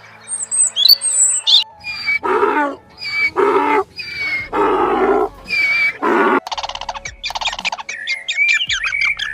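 High bird chirps, then a run of five loud, drawn-out animal calls, followed by fast squeaky chirping.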